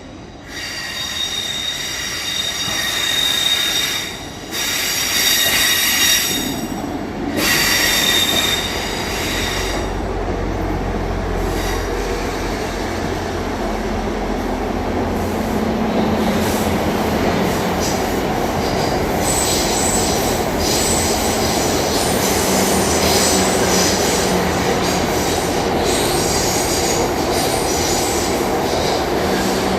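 Train running through a station with its wheels squealing on the rails: high-pitched squeal for the first ten seconds, broken twice by brief dips. After that comes a steady rumble of wheels on the track, with higher squealing returning in the second half.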